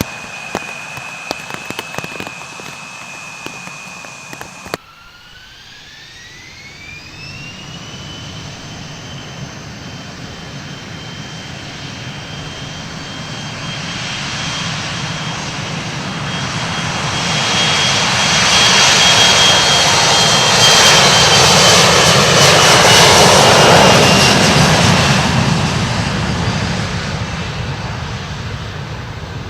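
Rain hiss with a steady engine whine, cut off abruptly about five seconds in. Then an Embraer E-Jet's turbofan engines spool up with a steeply rising whine to takeoff power. The roar grows to a peak and fades as the jet passes, its whine dropping slightly in pitch.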